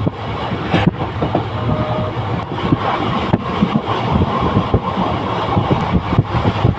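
A train running along the track: a steady rumble with frequent, irregular clatter of wheels on the rails.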